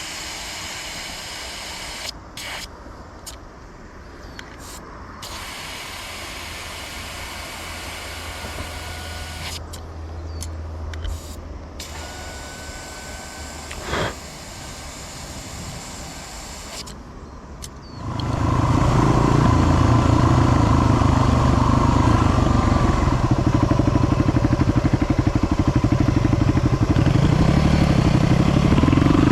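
Yamaha WR250 off-road motorcycle's single-cylinder engine. It comes in suddenly and loud about two-thirds of the way through and then keeps running steadily; before that only quieter, mixed background sounds are heard.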